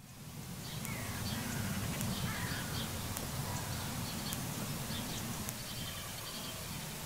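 Several short bird calls, some of them descending notes, over a steady low rumble.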